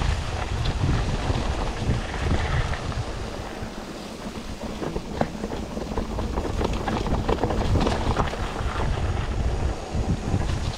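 Wind buffeting the microphone as a mountain bike rides over a rough trail, with many short rattles and clicks from the bike.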